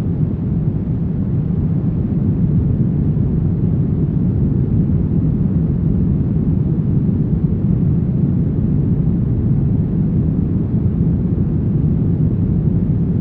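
Steady brown noise: an even, deep rumbling hiss weighted toward the low end, with no changes or events.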